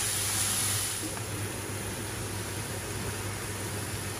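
Lamb mince frying with onion and green chilies in a pan: a steady sizzling hiss over a low hum, the hiss easing a little about a second in.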